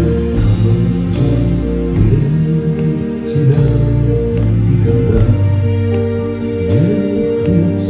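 Live band playing an instrumental passage of a folk-rock song: plucked guitar over a steady bass line and long held notes, with no singing.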